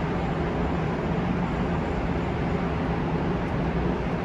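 Steady background noise of a large event hall: an even rush with a constant low hum and no distinct events.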